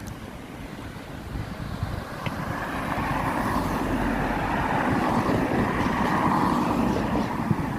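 Road traffic going by, growing louder about two to three seconds in, with wind buffeting the microphone.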